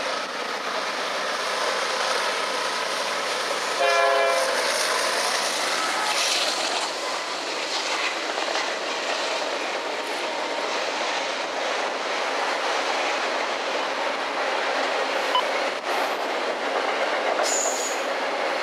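Freight train passing close by: a diesel locomotive goes under, then a long string of autorack cars, with a steady clatter and rumble of wheels on the rails. About four seconds in, as the locomotive arrives, there is a short horn blast.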